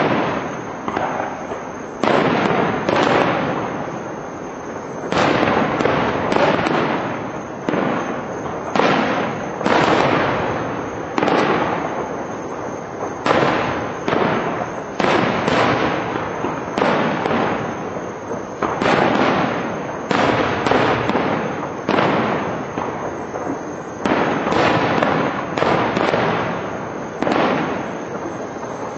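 Aerial firework shells bursting one after another, a bang every second or so, each trailing off before the next.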